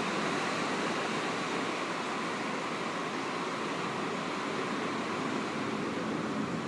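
Steady rushing noise of a roaring, rough sea's surf mixed with heavy rain.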